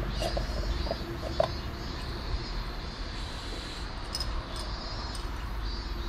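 Birds chirping and calling over a steady low rumble, with a few light clicks in the first second and a half.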